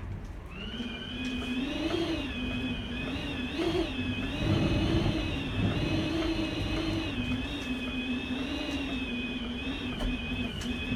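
Typhoon wind whistling with a slowly wavering pitch, a low tone and a high tone together over a low rumble, swelling in a stronger gust about four seconds in.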